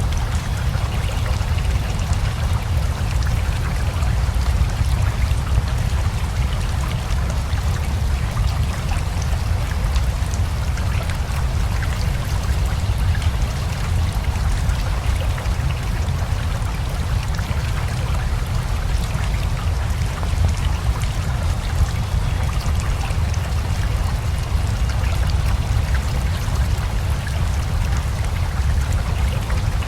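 Steady rain together with a flowing river: an even rush of water with a deep low rumble underneath and scattered patter of drops.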